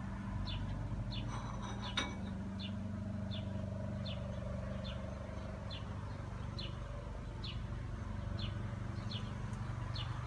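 A small bird repeating a short, high, falling chirp about every two-thirds of a second, over a steady low hum. There is a single click about two seconds in.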